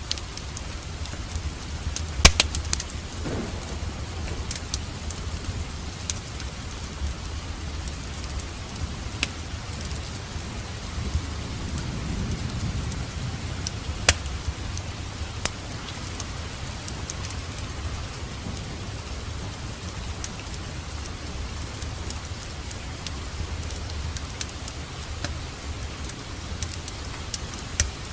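Steady rain with sharp crackling pops from a wood fire, the loudest about two seconds in, and a low rumble of distant thunder swelling around the middle.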